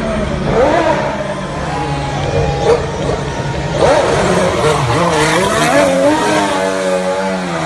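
Car engine sound effects: a steady low engine drone under revving tones that waver up and down in pitch.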